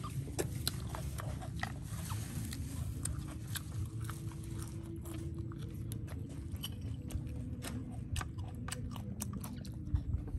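A person chewing a mouthful of grilled pork belly and fresh greens close to the microphone, with many small sharp clicks and crunches of the mouth, over a steady low rumble.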